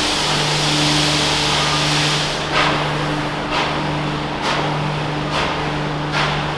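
A train running by: a steady low engine drone with a broad hiss, joined about two and a half seconds in by sharp clacks roughly once a second.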